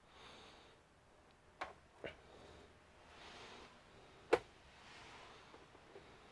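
Faint handling sounds during reassembly: three small clicks or taps, the sharpest about four seconds in, with soft rustling in between.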